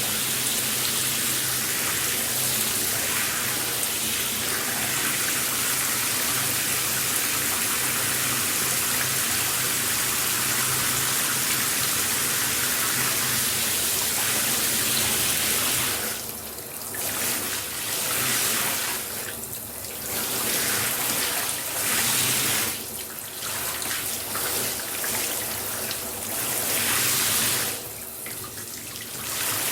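Shower spray running with a steady hiss of water. Over the second half the hiss drops briefly and comes back about four times.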